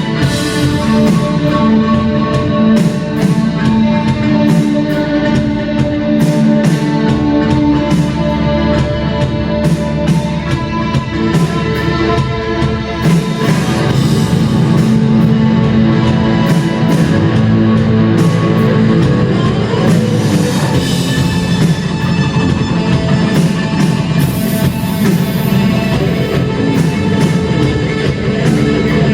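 Live rock band playing, with electric guitar and a drum kit, loud and steady.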